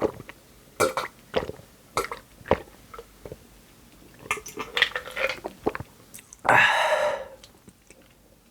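Close-up eating mouth noises, short sharp smacks and chewing, then one loud burp lasting under a second near the end.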